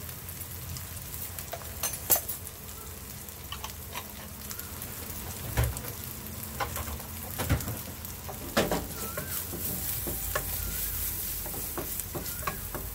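Diced onions and curry powder frying in oil in a non-stick wok: a steady sizzle, broken by a few sharp knocks and scrapes of a spoon against the pan as they are stirred.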